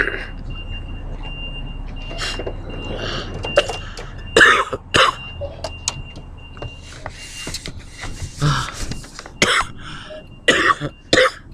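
A man coughing over and over, a string of about ten harsh coughs spread through the whole stretch: a lingering chest cough that is slowly clearing up. A faint, steady high-pitched tone runs underneath.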